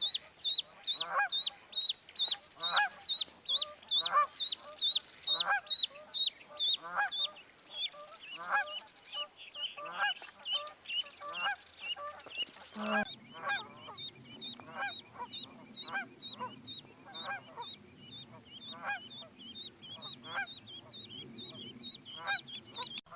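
Geese honking over and over, several calls a second, with a high, sharp call repeating alongside them. About halfway through, a low steady hum joins in underneath.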